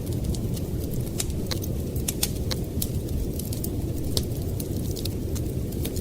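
Wood fire crackling with irregular sharp pops, over a steady low rumble of blizzard wind.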